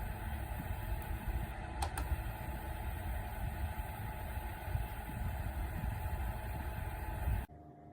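Small portable evaporative air cooler's fan running, with air rushing onto the microphone as a steady low rumble; a short click about two seconds in. It cuts off abruptly near the end, leaving a faint hum.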